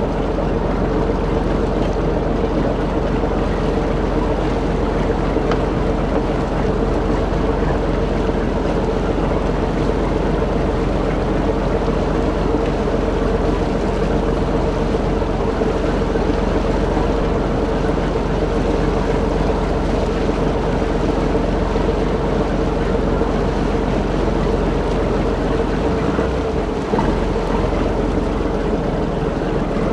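A large fishing boat's engine and deck machinery running steadily: a constant hum with a steady mid-pitched tone over it.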